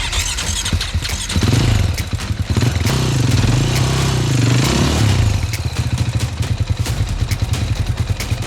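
Enduro dirt bike engine running and being revved, its pitch rising and falling several times in the first half, then holding a steadier, pulsing note.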